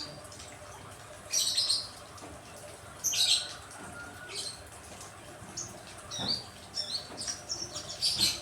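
Small songbirds chirping in short, high calls, some with quick pitch glides, with two louder, rougher bursts near 1.5 and 3 seconds in and a quick run of calls near the end.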